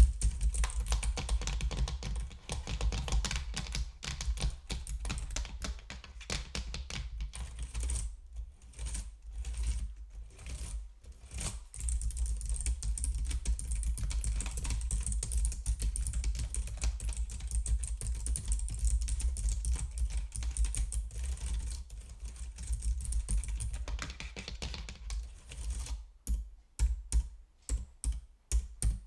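Typing on a computer keyboard close to the microphone: fast runs of key clicks with a couple of short pauses, thinning near the end to single, separate keystrokes.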